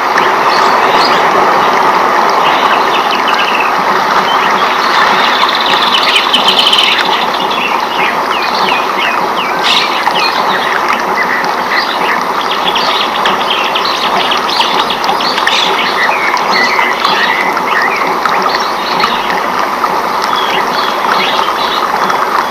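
Rainforest ambience: a steady wash of water noise, with many birds chirping and trilling over it in short calls throughout.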